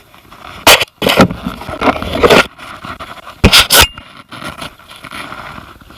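Kayak and paddle knocking and scraping through rough river water: four loud, sudden bursts in the first four seconds, then a quieter rushing bed.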